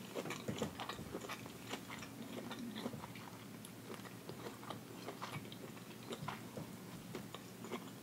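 Close-miked chewing of hibachi food with many small mouth clicks, with a fork picking through food in an aluminium foil pan.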